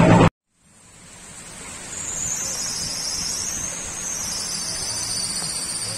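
Heavy rain and thunder stop abruptly just after the start. After a brief silence, a steady, high, wavering chorus of crickets fades in over a soft hiss of rain.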